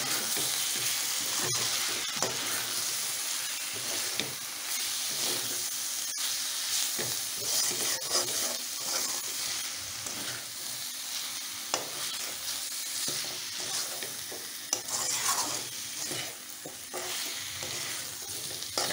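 Chicken pieces frying in oil in a metal wok, sizzling steadily while a metal spatula stirs and turns them with chilli powder and coconut powder, scraping and tapping against the pan now and then.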